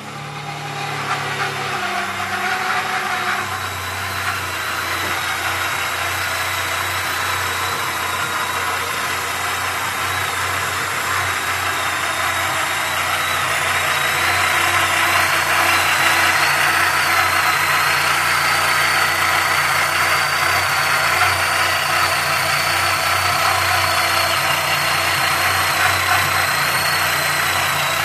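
Volkswagen Passat B4's ADZ 1.8 L four-cylinder single-point-injection engine idling just after starting, with a thin, high whistle that wavers slightly above the engine noise. The whistle comes from under the mono-injection throttle body, appears only once the engine warms to 50–60 °C, and its cause is unknown to the owner.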